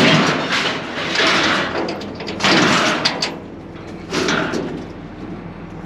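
Rough metallic scraping and rattling in several swells as scrap is handled, with a few sharp clanks about three seconds in.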